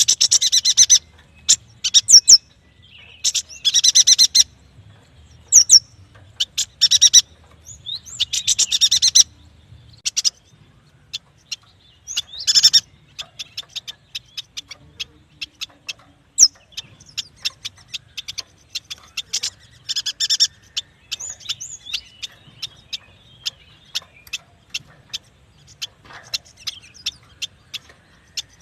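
Yuhina calling: bursts of fast, high chattering trills with many short, sharp chips between them, the chips coming in quick runs through the second half.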